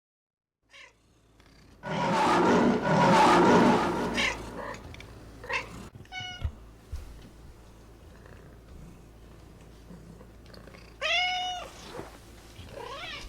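Pet animal calls. About two seconds in, a loud harsh squawk-like burst lasts a couple of seconds. A few short chirps follow, then near the end a single meow-like call that rises and falls.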